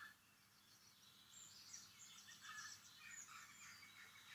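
Faint birdsong: small birds giving quick, high chirps and twitters, starting about a second in.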